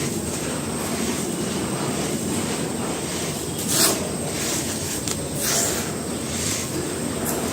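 Dry pure cement being crumbled by hand: a steady, dense crunching and grinding, with a few sharper crunches, the loudest about halfway through.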